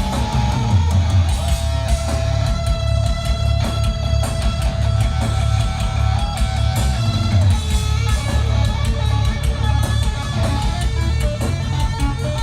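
Live heavy rock band playing loud, with electric guitars over heavy bass and drums. One long high note is held from about a second in until past the middle.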